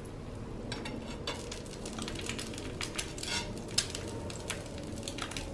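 Ghee crackling and spitting on a hot tawa around an egg dosa as it cooks, with light taps of a steel spoon on the pan and one sharper click a little before four seconds in.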